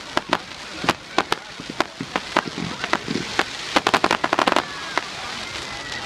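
Fireworks display: a rapid, irregular string of sharp bangs from bursting shells and cakes, packing into a dense crackling volley about four seconds in and stopping abruptly shortly after.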